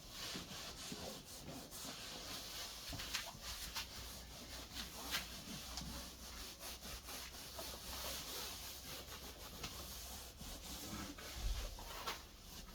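Faint, steady rubbing and scraping, with scattered small clicks, of hand work on the car's headliner material.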